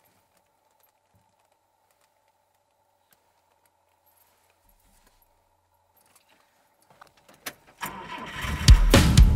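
Near silence for most of it, then a few clicks of a key turning in a car's ignition and the engine cranking and starting up, loud and low, near the end. Music comes in right at the end.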